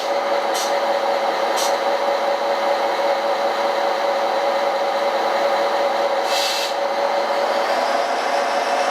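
Small electric motor of a radio-controlled model vehicle running with a steady whine. Short hisses come about half a second and a second and a half in, and a longer one just past six seconds.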